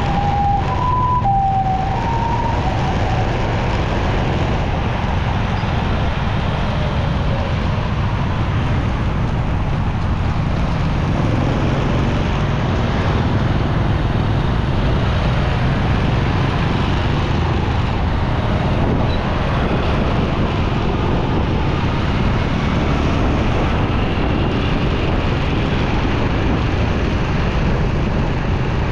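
Motorcycle riding in city traffic: steady wind rush and road rumble, with a motorbike engine running underneath. In the first two seconds a short alternating two-note tone sounds, like a siren or electronic horn.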